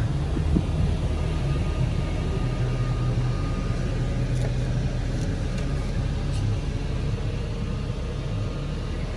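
Vehicle engine idling with a steady low rumble, a few faint clicks over it.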